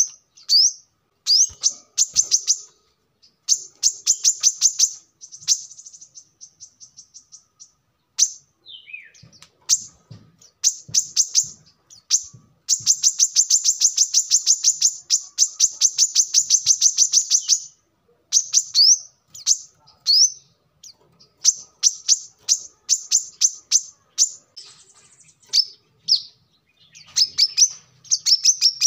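Brown-throated sunbird (kolibri kelapa) singing: rapid high-pitched trills of repeated notes in phrases separated by short pauses, with one long trill of about five seconds in the middle.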